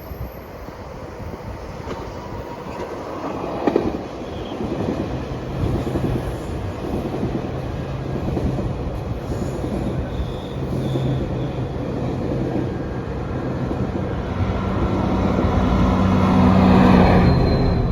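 GO Transit bi-level push-pull commuter train passing close by, with wheels running and clicking over the rails and a sharp click about four seconds in. A diesel locomotive engine hum grows loudest near the end as the pushing MP40 locomotive at the rear of the consist comes past.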